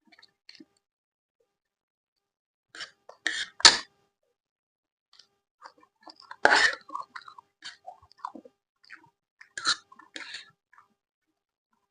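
Close-miked eating sounds: chewing and wet mouth noises in short, irregular bursts, with a quiet gap early on and a few louder crunchy bites, the loudest about a third of the way through and another just past halfway.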